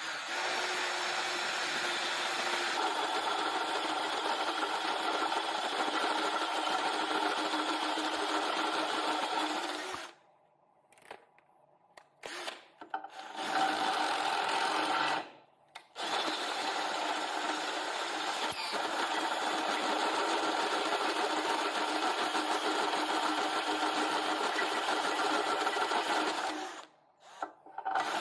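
Electric drill running under load, boring out holes in steel tabs to take M12 bolts. It runs steadily, stops about ten seconds in, is started briefly a few times, runs again, stops, then runs steadily until shortly before the end.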